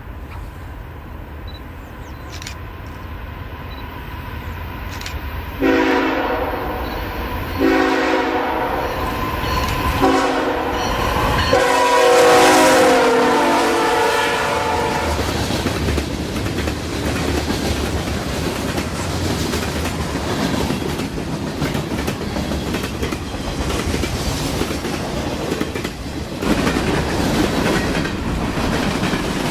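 Diesel freight locomotive approaching with a growing rumble, then sounding its chime air horn in the long-long-short-long grade-crossing pattern, the last blast the longest. The train then rolls past with a steady rumble and clatter of wheels on rail.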